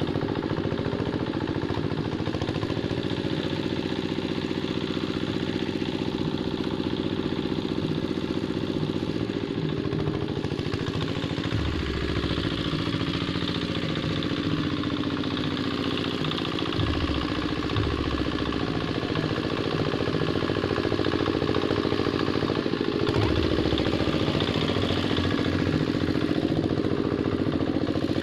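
Quick Capung Metal two-wheel hand tractor's diesel engine running steadily, with a few brief deeper surges.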